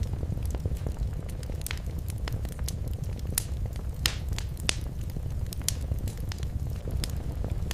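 Wood fire burning in a fireplace: a steady low rumble of flames with irregular sharp crackles and pops, a few louder pops near the middle.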